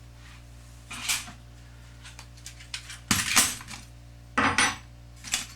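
Small metal hardware clinking and clattering as it is handled, with a few separate clatters: one about a second in, a longer one around three seconds, and two more near the end. A steady low hum runs underneath.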